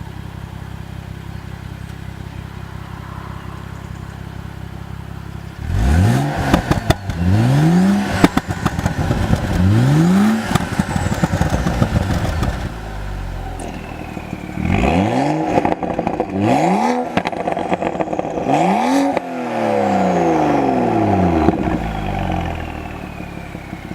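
BMW M135i's turbocharged 3.0-litre N55 straight-six idling through an aftermarket active rear silencer. About five and a half seconds in it is revved in a series of about six sharp throttle blips, each rising and falling back, with pops and crackles from the exhaust as the revs drop.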